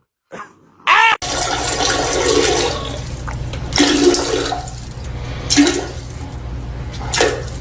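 A short pitched cry about a second in, then water rushing loudly with a low rumble, starting suddenly and surging several times.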